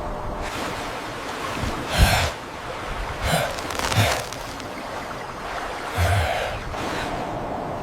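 Four short breathy gasps or snorts over a steady rushing background.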